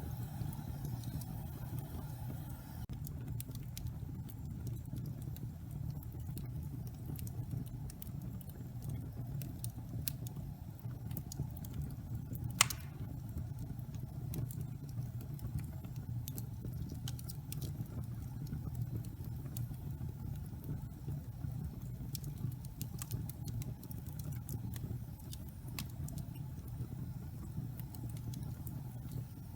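Log fire burning in a fireplace: a steady low rumble of the flames with scattered small crackles, and one sharp, louder pop about twelve seconds in.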